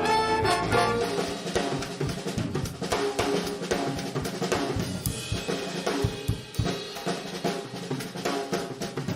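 Drum kit playing a solo break of snare, bass drum and rimshot hits in a jazz band number. The band's brass chord sounds for about the first second before the drums take over.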